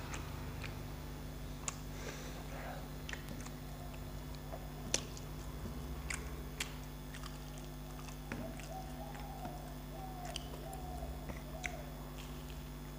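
A person chewing food and mixing rice by hand on a steel plate: scattered small clicks and mouth sounds, a sharper click about five seconds in, over a steady low hum.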